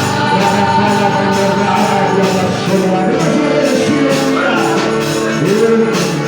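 Live gospel worship music: a singer's voice gliding between held notes over band accompaniment, with a steady beat of tambourine-like percussion.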